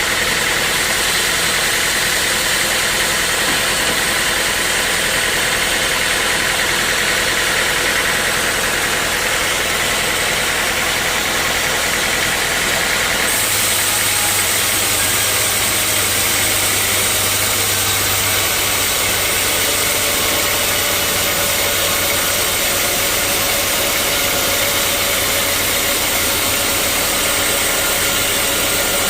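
Sawmill machinery running steadily, a loud constant machine noise whose tone changes abruptly about halfway through.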